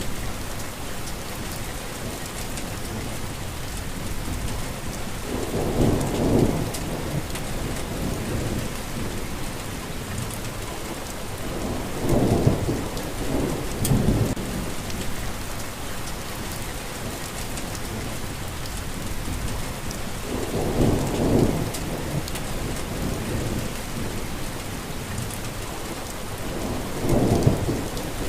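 Steady rain, with a low rumble swelling up four times, roughly every seven seconds.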